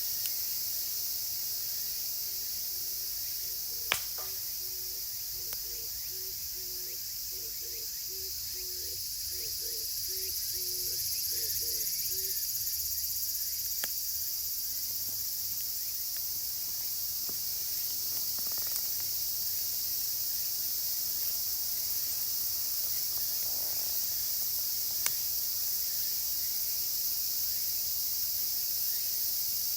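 A dense chorus of cicadas, including higurashi (evening cicadas), forms a steady high-pitched shrilling. A wood campfire gives a few sharp crackles over it, the loudest about four seconds in.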